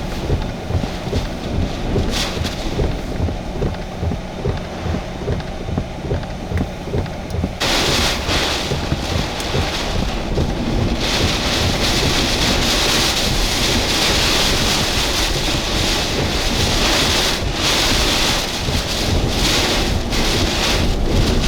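Hurricane-force wind gusting hard with driving rain, buffeting the microphone and the vehicle in pulsing low rumbles. About seven and a half seconds in, a sudden, much louder hissing rush of wind and rain takes over and stays.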